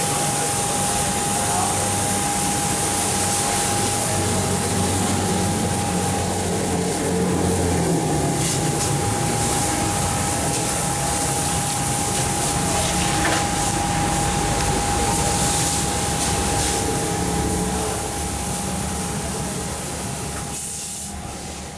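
Car-wash pressure pump running steadily, a constant whine under the hiss of its spraying water jet. The sound fades away near the end.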